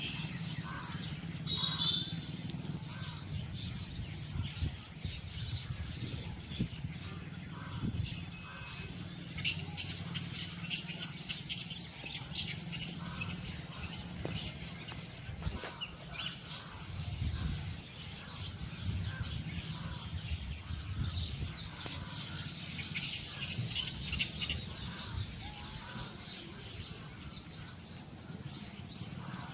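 Outdoor ambience with birds chirping: a short chirp about two seconds in and two runs of rapid high chirping later on, over a low steady hum.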